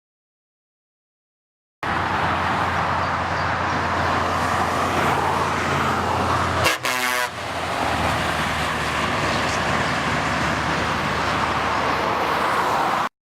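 Scania R500 V8 truck engine running steadily, starting after about two seconds of silence. A short horn toot sounds about halfway through.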